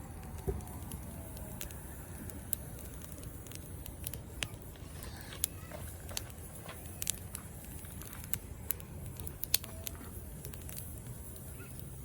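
Bonfire crackling, with irregular sharp pops over a steady low noise.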